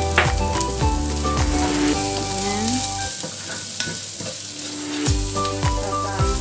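Sliced carrots, garlic and ginger sizzling in oil in an enamelled cast-iron pan, stirred and scraped with a wooden spatula, under steady background music.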